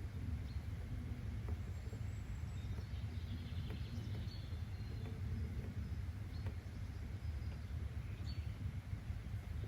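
Nature ambience: a steady low rumble with scattered faint bird chirps and a few soft clicks.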